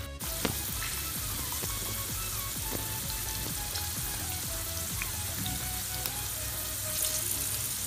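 Whole Indian gooseberries (amla) deep-frying in hot oil on a low flame, a steady sizzling hiss of bubbling oil.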